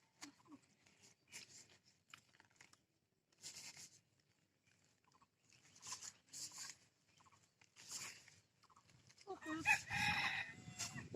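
A rooster crowing once, about nine seconds in, over faint scattered short crunchy noises.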